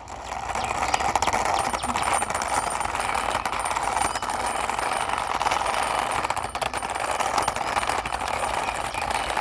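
A toy police helicopter's wheels rolling steadily as it is pushed along by hand, a continuous grinding noise with fine clicks; a faint high thin tone joins about a second and a half in.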